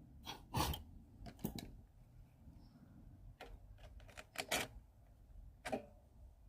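Irregular sharp clicks and knocks of metal parts and tools being handled during work on a lawnmower engine, about ten in all, loudest about half a second in, with a quick cluster a little past four seconds.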